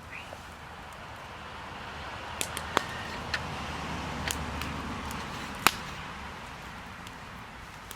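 Wood campfire crackling: a handful of sharp pops over a rushing noise that swells and then fades.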